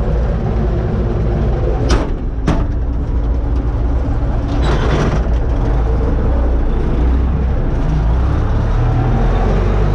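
Universal U650 tractor's four-cylinder diesel engine running steadily under load while pulling a disc harrow. Two sharp knocks come about two seconds in, and a short rattle about five seconds in.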